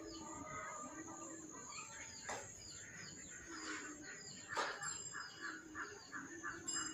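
Birds calling: low, arching calls repeated every second or so, higher short chirps over them, and a fast run of about eight short notes a little past the middle.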